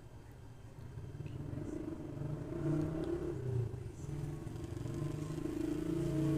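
Small 'pato' fan motor humming and growing louder as it runs, its coil overheated and shorted.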